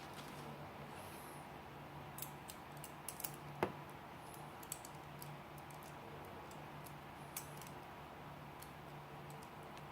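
Scattered small metal clicks and taps from a Leatherman Wingman multitool and its parts being handled, with a sharper click about three and a half seconds in, over a faint steady hum.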